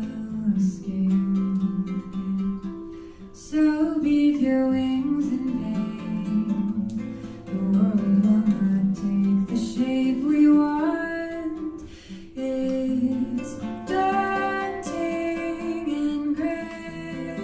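A song performed live: a singer over plucked-string accompaniment with sustained notes.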